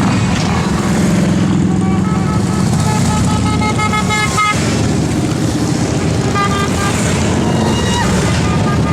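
A group of motorcycle engines running steadily, with short horn toots in quick series about halfway through and again near the end.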